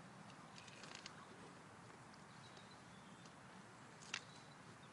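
Near silence: faint outdoor ambience with a few soft ticks and short faint high chirps, and one sharp click about four seconds in.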